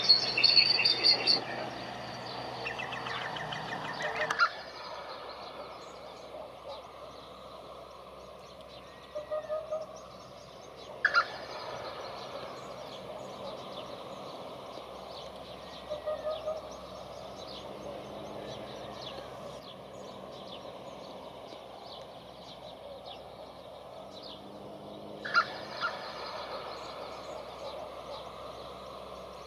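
Wild birds calling outdoors. A dense run of repeated calls in the first four seconds stops abruptly. After that the background is quieter, with scattered short chirps and a few louder single calls.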